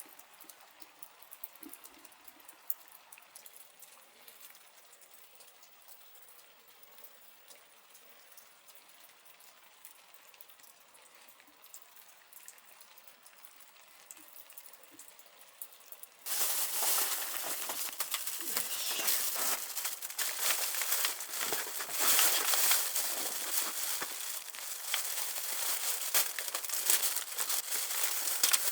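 Rain on a truck's canvas hood tent: a faint hiss for the first half, then from just past halfway a sudden, much louder dense crackling patter.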